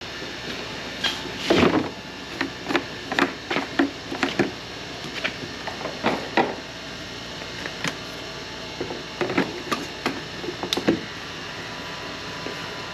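A string of irregular knocks, clicks and clanks, like hands working with tools and hard parts, over a steady background noise.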